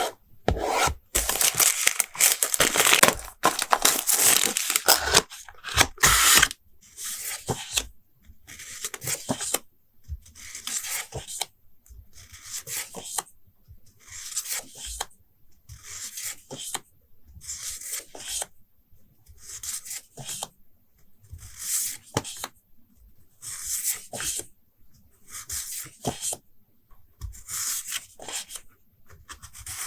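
Paper and tape being torn and peeled, close up: a dense run of tearing for the first six seconds or so, then short rasping strokes about once a second.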